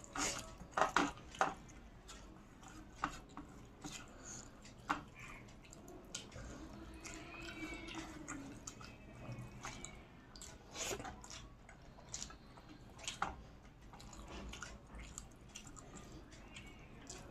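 A person eating close to the microphone: chewing and wet mouth smacks with scattered short clicks.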